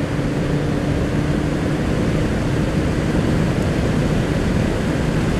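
Motorcycle riding at steady speed: a constant rush of wind noise over the microphone, with the engine running steadily underneath at an even pitch.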